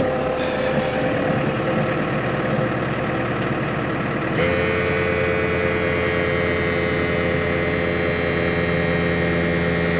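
Tractor engine running at idle, heard from inside the cab. About four seconds in, a steady higher whine and hiss suddenly join it and carry on.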